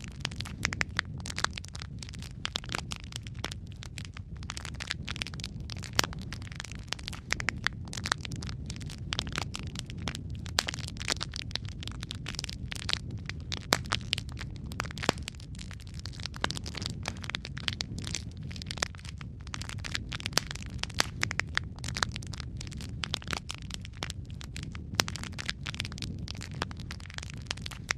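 Wood fire crackling in a fireplace: a dense, irregular run of sharp pops and snaps over a steady low rumble of flame.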